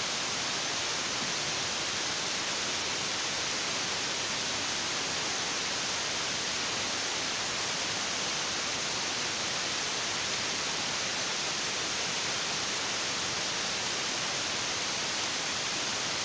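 Steady, even hiss that does not change in level or character.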